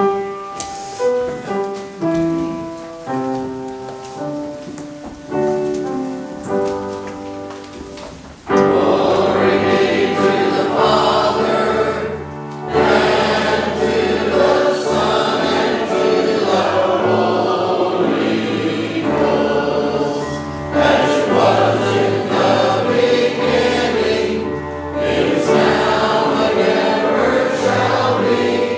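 Church worship music: a solo instrument plays a short introduction of single ringing notes, then choir singing with accompaniment comes in loudly about eight and a half seconds in.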